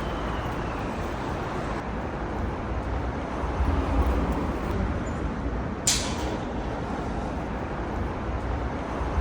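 Steady low rumble of vehicle noise, with a single sharp click about six seconds in.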